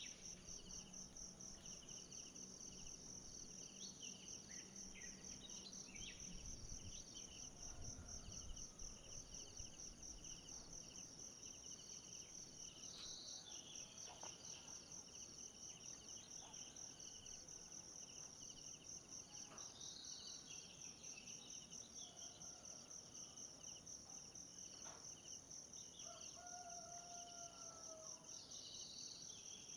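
Faint forest ambience: a steady, high-pitched insect chorus pulsing rapidly, with scattered short bird chirps and a longer whistled call near the end.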